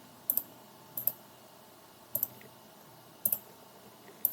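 Computer mouse clicking, five times over a few seconds, most of them as quick double clicks, while picking areas to hatch in AutoCAD.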